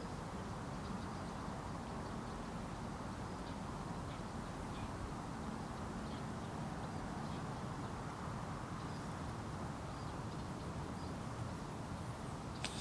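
Forest ambience: a steady low hiss and rumble with faint, scattered bird calls, and one sharp click near the end.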